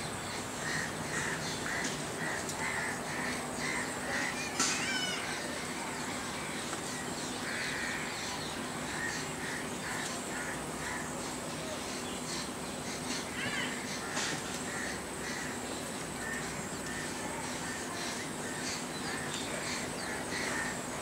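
Outdoor ambience with short, harsh bird calls repeating every half second or so, and one sharper, louder call about four and a half seconds in.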